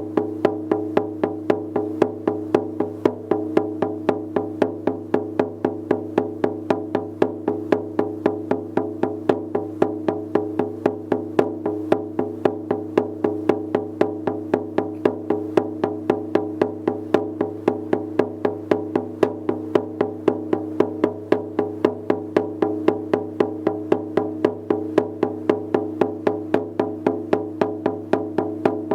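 Shaman's frame drum beaten in a steady, even rhythm of several strokes a second, its skin ringing on between strokes.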